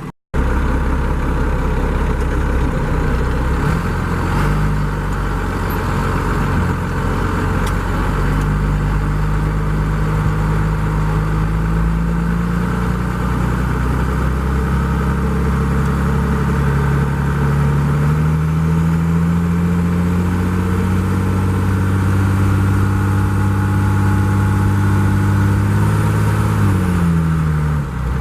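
12-valve Cummins diesel in a Ford F700, with a straight-piped 5-inch exhaust, running steadily while warming up just after starting. Its note drifts slowly higher over the middle and drops back near the end.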